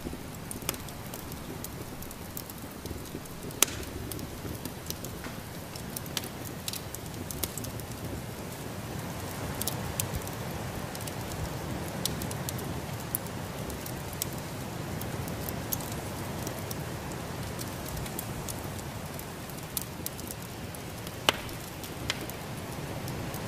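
Wood fire crackling in a fireplace, with scattered sharp pops, two of them loud (a few seconds in and near the end), over a steady rushing noise.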